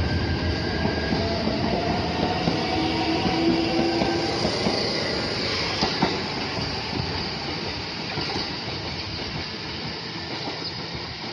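Shinano Railway SR1 series four-car electric train pulling out and accelerating past. A motor whine slowly climbs in pitch over the rumble of wheels on rail, with a single knock about six seconds in. The whole sound fades as the train draws away.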